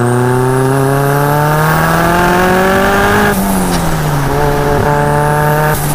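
Turbocharged Nissan CA18DET four-cylinder in a Locost kit car pulling hard, its revs climbing with a high turbo whistle rising above them. About three seconds in, the revs drop sharply with a short sharp burst, as at a gear change. The engine then pulls again, and the whistle climbs before a second sharp burst near the end.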